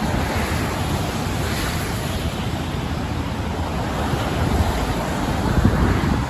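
Wind gusting across the microphone: a steady rushing noise with heavy low buffeting, a little stronger near the end.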